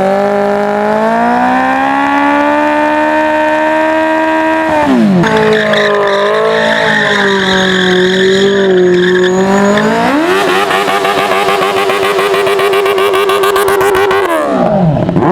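Superbike engine revving hard and held at high revs, its pitch climbing slowly and then dropping sharply about five seconds in before being held high again. From about ten seconds the revs flutter up and down with a hiss, and near the end they fall and climb steeply again.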